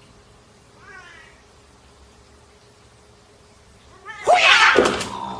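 A domestic cat gives a loud, harsh meow about four seconds in, after a faint short call about a second in.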